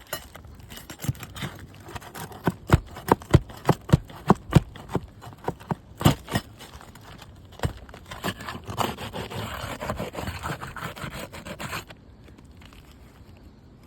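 Removing the nails from asphalt roof shingles: a string of sharp knocks from a tool driven under the shingles, about three a second, then scraping of the tool and shingle for a few seconds that stops abruptly.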